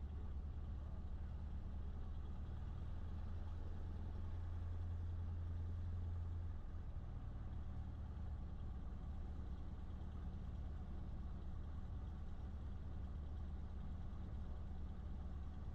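Cessna 152's four-cylinder Lycoming engine running at low taxi power, a steady low drone in the cockpit. The pitch steps down slightly about six and a half seconds in.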